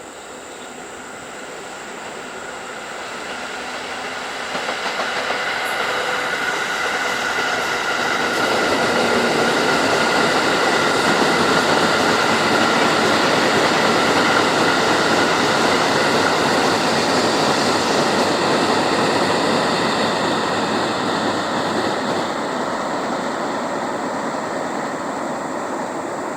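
Freight train of hopper wagons behind an EF64 electric locomotive rolling past: the rumble of wheels on rail swells over about ten seconds, holds steady with a faint high-pitched whine, then slowly fades.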